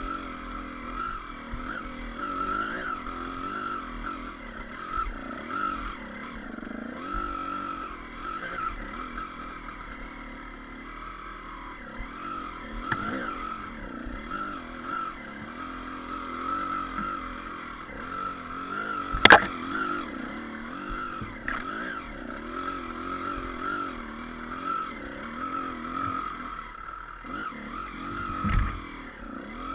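Off-road motorcycle engine running on a trail ride, its note wavering up and down with the throttle. A sharp knock sounds about two-thirds of the way through.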